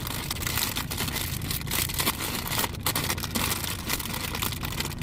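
Rattling and crinkling of plastic cutlery and bags being rummaged through in a container, many small clicks and rustles throughout, over the steady low hum of the truck's engine running.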